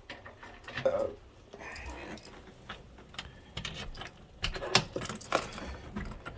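Keys jangling, with scattered small clicks and knocks of handling.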